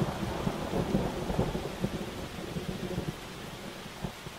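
Thunderstorm: rain falling steadily while the low rumble of a thunderclap dies away, the whole storm growing quieter toward the end.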